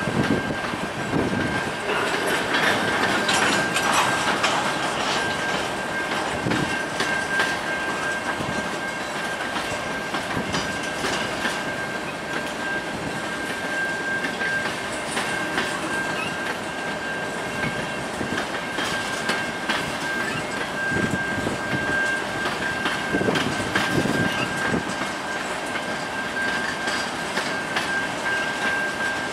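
Covered grain hopper cars of a long freight train rolling past, their wheels clicking and clanking on the rails over a steady rumble. A steady high-pitched whine runs through it.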